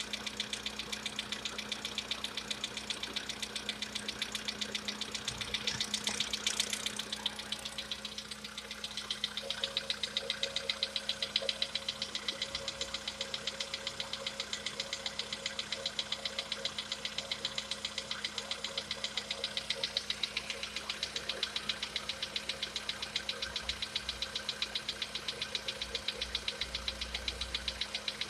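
Volkswagen Polo Sedan's CFNA petrol engine running with a steady, regular knock repeating in time with the engine, the long-known knock of this engine. It gets briefly louder about six seconds in.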